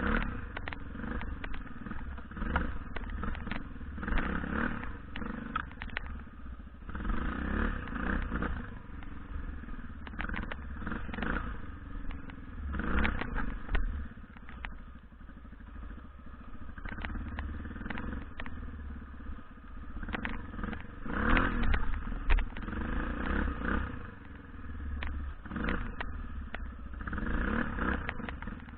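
BM Enduro 250 dirt-bike engine revving up and down over and over, with the throttle opened in bursts and eased off between them. Scattered clatter and knocks come through over the engine.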